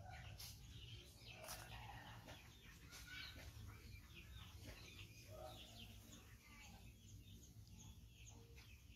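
Faint outdoor background of scattered short bird calls over a low steady rumble.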